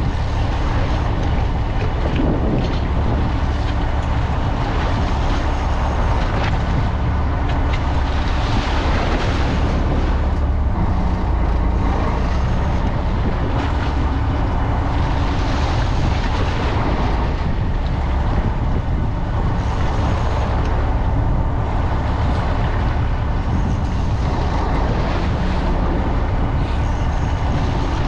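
A fishing boat's engine running steadily with a low hum, under a rushing noise of wind and water that swells several times.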